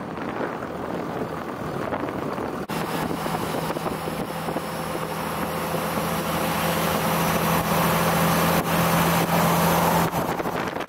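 An engine running steadily with a noisy rumble. About three seconds in a steady hum joins it, and the sound grows louder toward the end.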